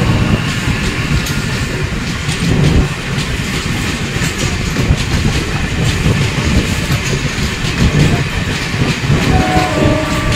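Passenger train passing close alongside on the adjacent track, its coach wheels clattering over the rail joints with a heavy rumble. A few steady tones come in near the end.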